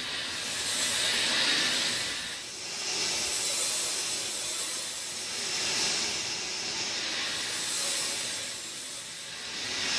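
Steady rain: a dense hiss of falling drops that swells and eases every two seconds or so.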